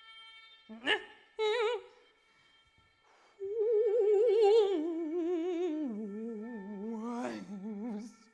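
A wordless voice sings long notes with wide, even vibrato, stepping down in pitch over several seconds, after a quick upward swoop and a short note about a second in. A faint steady drone of high tones sits underneath.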